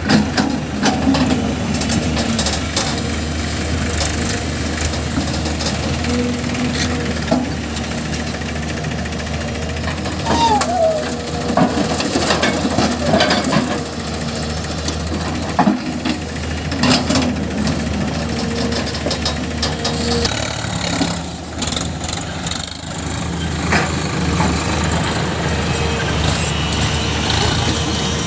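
Diesel engines of a JCB backhoe loader and a tractor running steadily, with repeated knocks and clanks as mud is loaded.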